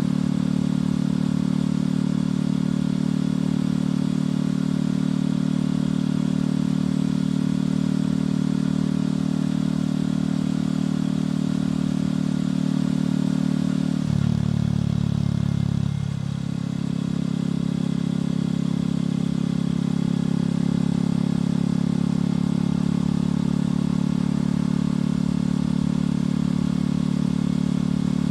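Motorcycle engine and exhaust running steadily while riding, with a brief change in the engine note and a short dip in loudness about halfway through, as from a shift or easing off the throttle.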